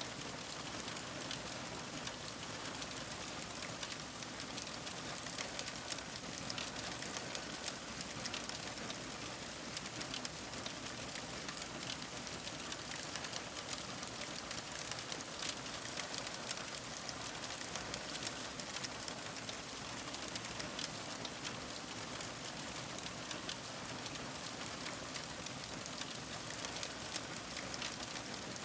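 Crackling fire: a steady stream of small pops and snaps over a soft hiss.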